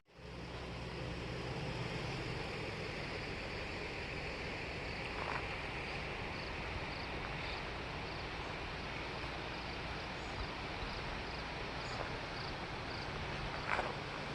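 Steady outdoor background noise, with faint high chirps repeating about twice a second for a stretch and a couple of brief clicks.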